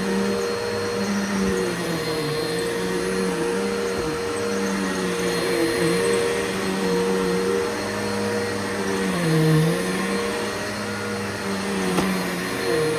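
Bissell Powerforce Bagless (6583-X) upright vacuum cleaner running on carpet, a steady motor hum whose pitch wobbles and dips briefly now and then, most deeply about nine seconds in. The owner says the motor is in mint condition and sounds really good.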